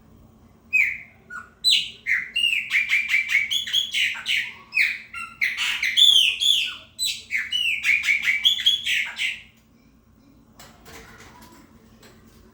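Chopi blackbird singing a loud, rapid run of repeated arched, whistled notes, stopping about two-thirds of the way through.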